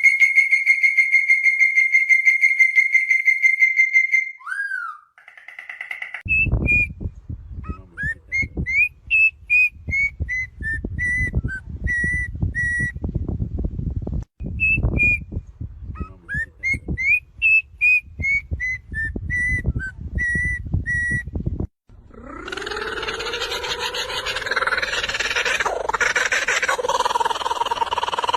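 Birds singing in turn. First comes a fast trill held on one high pitch. Then a bird whistles a repeated phrase of quick rising notes followed by a run of even notes, over a low rumble. From about three-quarters of the way in, another bird gives a harsher, noisier call.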